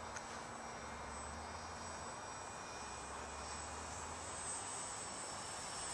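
Faint, distant drone of a radio-controlled Dynam Cessna 310 scale model's twin electric motors on landing approach, growing slightly louder near the end. Insects chirr steadily and high underneath.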